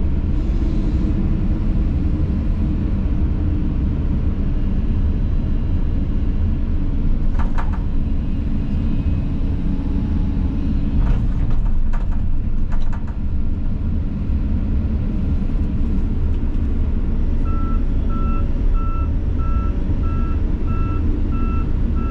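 Volvo excavator's diesel engine running steadily, heard from inside the cab, with a few short clanks. Near the end its travel alarm starts beeping in an even, repeating rhythm as the machine tracks.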